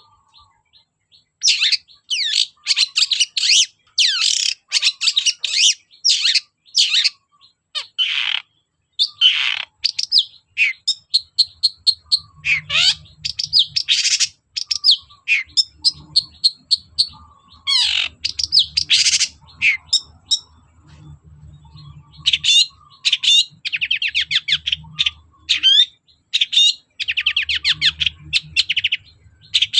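Long-tailed shrike (cendet) singing a fast, varied song of chirps, sweeps and rapid trills in quick phrases with short pauses.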